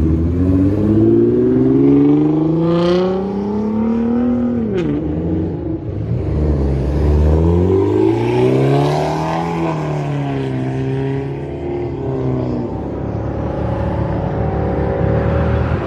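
Car engines revving and accelerating hard. The engine note climbs for about four seconds, then drops sharply with a sharp crack about five seconds in. It climbs and falls again around the middle, and a steadier engine note holds near the end.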